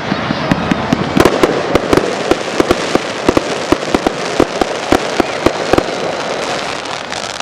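Fireworks display: a rapid, irregular string of sharp bangs and crackles, several a second, over a continuous crackling hiss.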